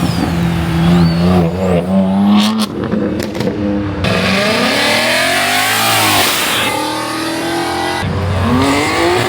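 Car engines revving and accelerating, their pitch rising and falling several times, with a hiss over the middle few seconds.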